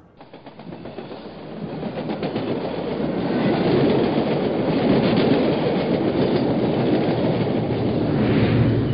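Model railway train, a diesel locomotive leading a string of cars, rolling along the layout track. It gives a steady rumble of wheels and motor with faint clicking, growing louder over the first few seconds as it comes closer.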